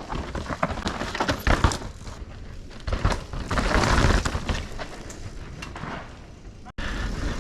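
Moustache Game 160 electric mountain bike riding fast down a dirt trail: tyres rolling over dirt and rocks, with irregular sharp knocks and rattles from the bike over bumps. The sound cuts out suddenly near the end and picks up again.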